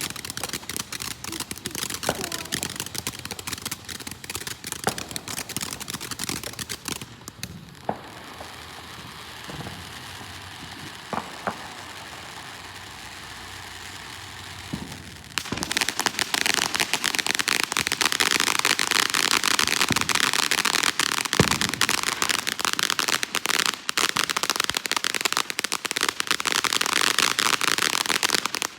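Consumer fireworks crackling densely, with a quieter stretch in the middle where a few short whistles sound. About halfway through, a much louder, continuous crackle sets in and keeps going.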